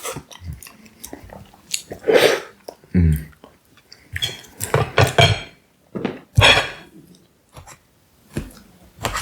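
Eating a slice of apple pie: a fork clinking and scraping on the plate and the eater chewing, in short separate bursts with quiet gaps between them.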